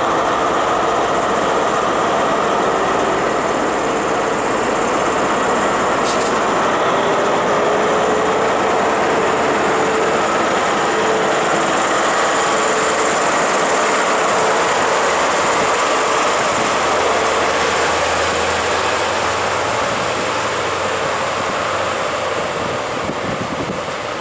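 British Rail Class 43 HST passing at speed: the power car's diesel engine running, with a steady whine over the rumble, then its Mk3 coaches' wheels rolling along the rails.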